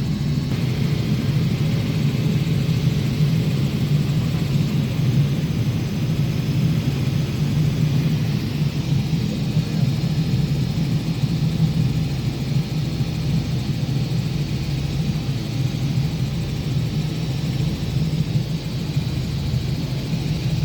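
Helicopter running steadily in flight, a constant low drone from its engine and rotors.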